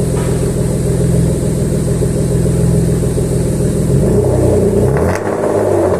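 A Jaguar XJ's freshly swapped-in engine running steadily on its first start, then revved from about four seconds in, its pitch rising and falling with each blip of the throttle.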